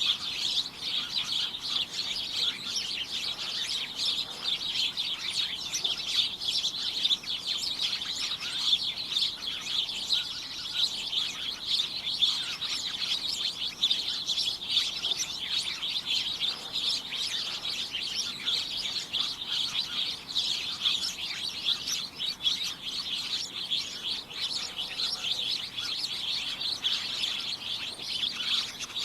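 A flock of small birds chirping continuously, many calls overlapping into a dense, high-pitched chatter without pause.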